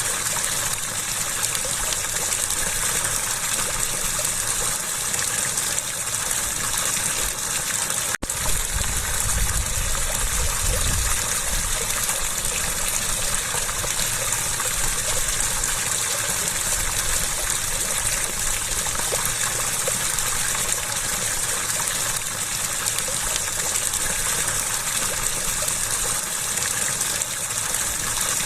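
Water gushing and splashing steadily, with an even hiss. There is a momentary break in the sound about eight seconds in.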